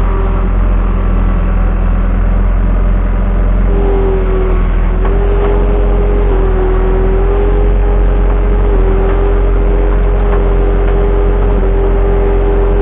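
Skid steer loader running steadily at working revs during land clearing. A steady whine rides over the engine; it drops out about half a second in and comes back some three seconds later.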